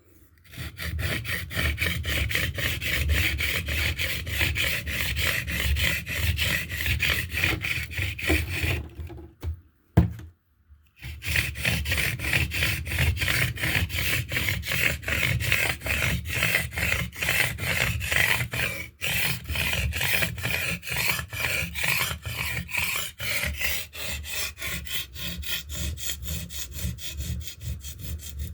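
A metal blade being rubbed back and forth on a limestone sharpening stone, a quick, even run of gritty rasping strokes. They stop for about two seconds roughly ten seconds in, with one sharp knock, then carry on at the same pace.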